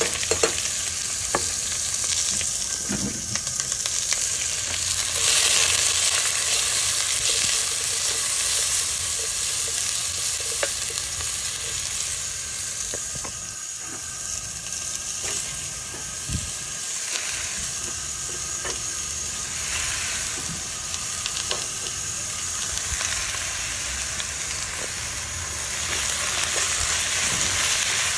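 Pork belly with onions, shallot and lemongrass sizzling in a hot pan as it is stirred, a steady hiss with scattered light clicks of the utensil against the pan.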